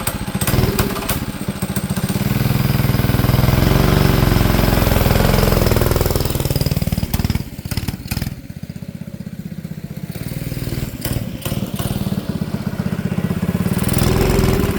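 Mini bike's small single-cylinder engine running at higher revs, then dropping back to a slower, pulsing idle about seven seconds in and picking up a little near the end. The engine is not yet tuned: it needs a richer idle mixture.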